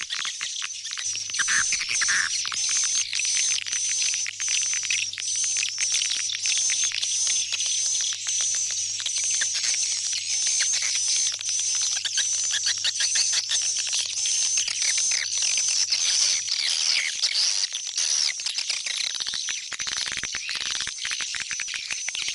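Swiftlet calls: a dense chatter of high, twittering chirps pulsing about twice a second, the kind of swiftlet sound played to lure swiftlets back into a swiftlet house.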